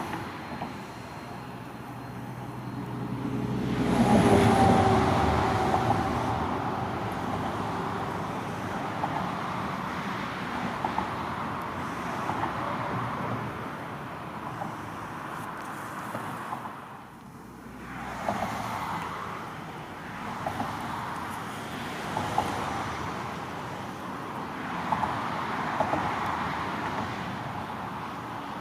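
A vehicle passes, loudest about four seconds in with a brief whine, then steady running noise with scattered clicks that dips briefly past the middle.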